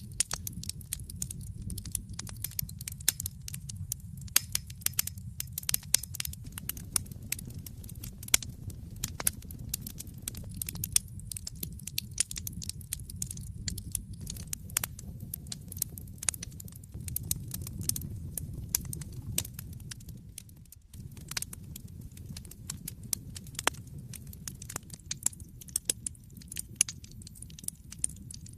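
Wood fire burning in a fireplace: dense, irregular crackles and pops from the logs over a steady low rumble of the flames. The low rumble briefly drops out about two-thirds of the way through.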